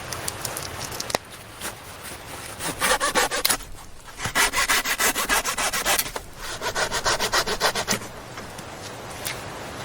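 Fast rhythmic rasping back-and-forth strokes in three bouts with short pauses, the sound of sawing or rasping at wood.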